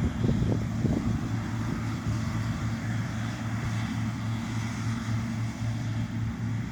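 John Deere T670i combine harvester running as it cuts, a steady low engine drone over a constant rush of machinery noise, with a few brief bumps in the first second.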